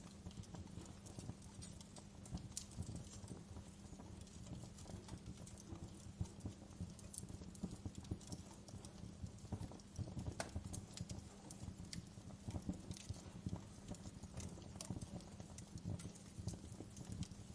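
Wood fire in a fireplace crackling, with dense irregular small pops and a few sharper snaps over a low, steady rumble of the flames.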